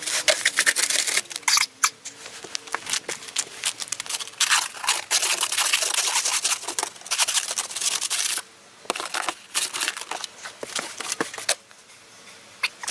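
Snow brush and scraper working over a vehicle's snow-covered body and windows in sped-up footage. The audio is fast, dense scraping and brushing rasps with rapid clicks, and it pauses briefly about eight and a half seconds in.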